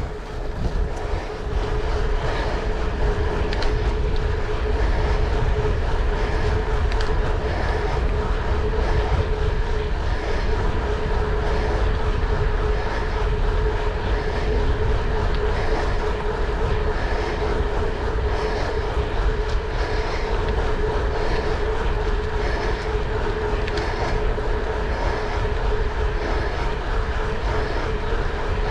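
Steady vehicle noise: a low rumble under a constant hum, rising about a second in and then holding.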